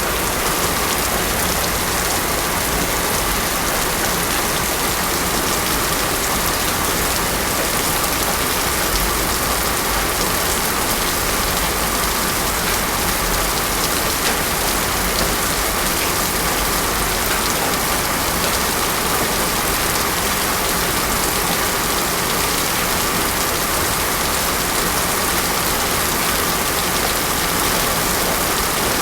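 Heavy rain falling steadily on a road, with no thunder.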